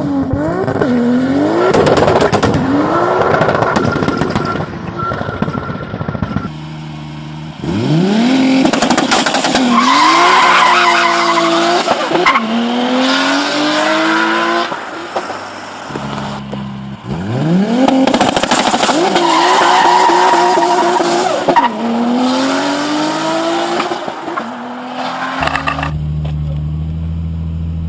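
Performance car engine accelerating hard through its gears, its pitch climbing and dropping back at each shift, over several runs. Near the end a steady low engine drone takes over.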